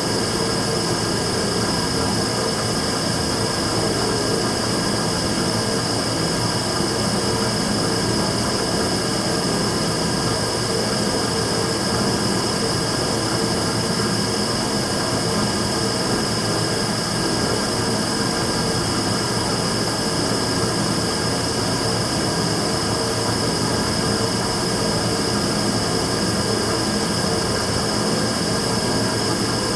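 Immersion-tube burner running continuously: a steady, even roar with a steady high tone over it, the abnormal noise the burner is making.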